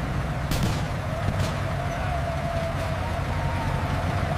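Battle sound effects: a continuous low rumble with a few sharp gunshots scattered through it, about three, and a faint wavering high tone.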